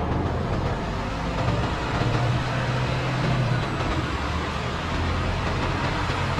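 Semi truck's diesel engine running at low speed, its pitch rising and falling a little during the second half of the clip.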